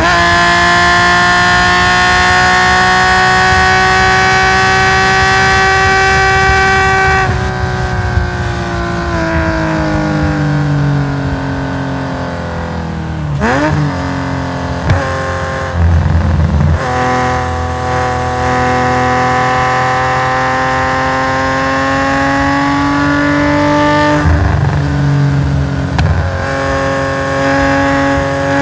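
Race-tuned Nissan S20 straight-six in a Skyline GT-R, heard on board at high rpm: the engine note holds high for about seven seconds, then falls as the driver lifts off. About halfway there is a sharp dip and rise in pitch, then the note climbs steadily under full throttle, with a gear change near the end.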